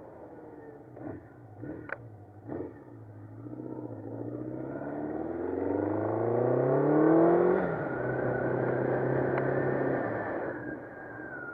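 1984 Honda CB700SC Nighthawk S inline-four engine under way, freshly rebuilt top end still being run in. A few sharp knocks come in the first few seconds, then the engine revs up through a gear, drops in pitch at a shift about three-quarters of the way through and holds a steady pace before fading.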